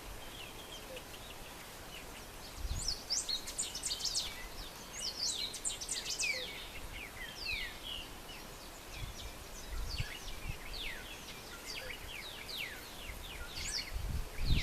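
Birds chirping in many quick, short notes that start about two seconds in, over a steady background hiss, with a few brief low thumps.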